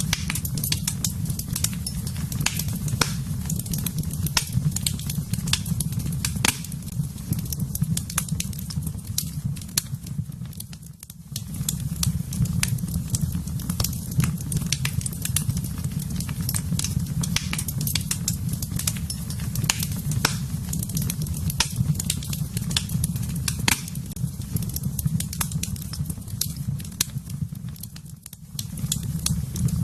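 Wood fire burning in a fireplace: frequent sharp crackles and pops over a steady low rumble, which dips briefly about eleven seconds in and again near the end.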